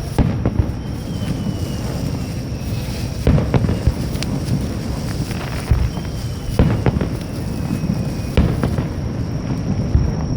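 Fireworks bursting overhead: sharp bangs, mostly in quick pairs, every three seconds or so, with a faint falling whistle twice between them. Underneath runs a steady low rumble of wind and surf.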